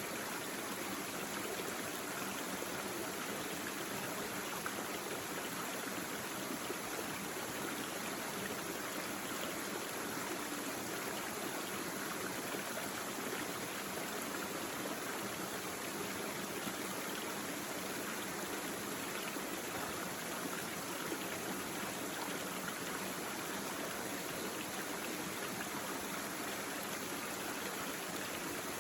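A small stream babbling steadily over stones, an even rush of water that stays the same throughout.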